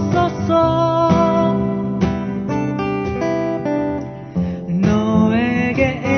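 Acoustic guitar strumming chords in a slow acoustic ballad arrangement, with a brief dip in loudness about four seconds in before the playing picks up again.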